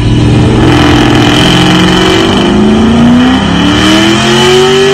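Car engine accelerating hard, its pitch climbing steadily and dropping back a couple of times at gear changes before climbing again.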